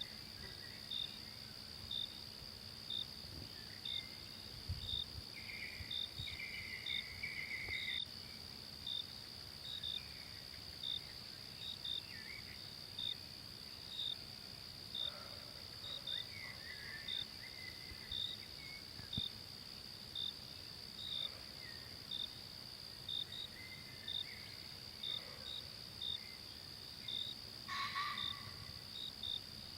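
Forest ambience: a steady high insect drone with a short chirp repeating about once a second, and scattered bird calls, one of them louder near the end.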